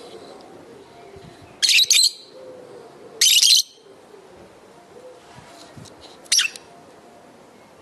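Lovebirds giving short, harsh, shrill calls. Two come in quick succession about two seconds in, another follows a second later, and one more comes near the end, over fainter background chatter.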